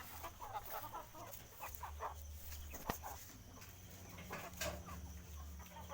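Chickens clucking faintly, with short calls scattered through, and a single sharp click about three seconds in.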